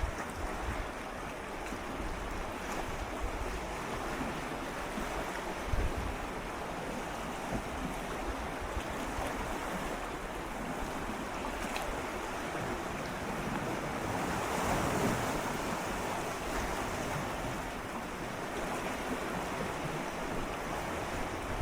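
Gentle sea waves swirling and lapping against shoreline rocks, close up: a steady wash that swells slightly about two-thirds of the way through. A brief low thump about six seconds in.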